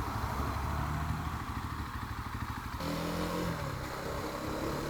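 A motorcycle engine running under way, with wind noise. About three seconds in, the engine note changes abruptly.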